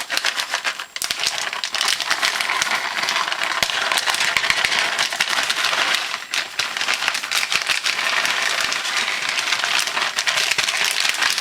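Food sizzling in a hot pan: a steady, dense crackle with many small pops.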